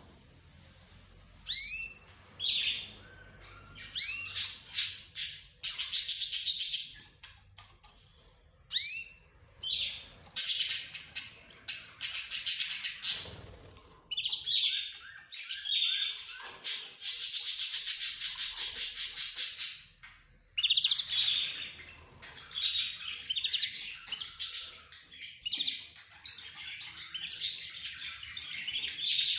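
A mix of pet cage birds (budgerigars, lovebirds, zebra finches and a canary) chirping and calling over one another in short high notes and rising calls, with two long, fast, loud trills of song.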